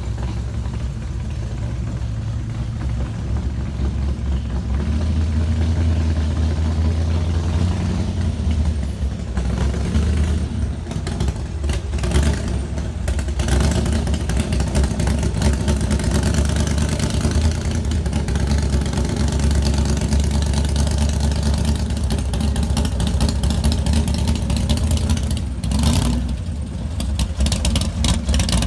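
A car engine running close by with a deep, steady tone that swells and eases as it is revved, with a few knocks and clatters.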